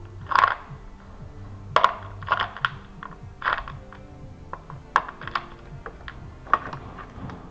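Hand tools knocking and clicking against metal engine parts in a series of sharp, irregular clanks, over steady background music.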